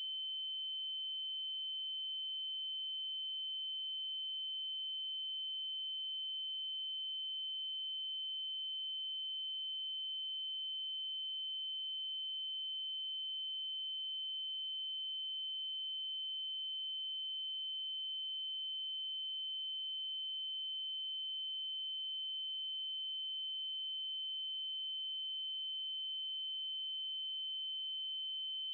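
A steady 3072 Hz triangle-wave test tone, one unchanging high-pitched pure note with faint overtones.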